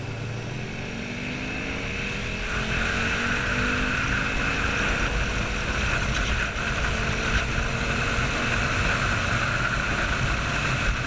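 Motorcycle engines running steadily under a rumble of road and wind noise, the engine pitch rising slowly over the first few seconds.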